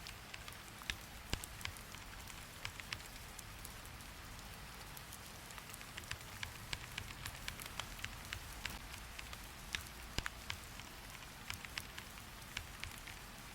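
Steady rain with many sharp, irregular clicks and taps, several a second.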